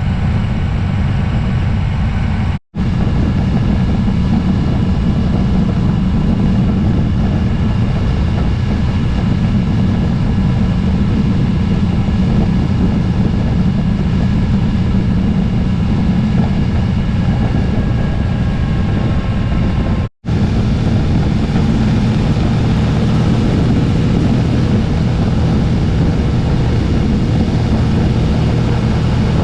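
Motorcycle riding at a steady speed: heavy wind rumble on the microphone over the engine, with a faint steady whine above it. The sound cuts out abruptly for an instant twice, about three seconds in and about twenty seconds in.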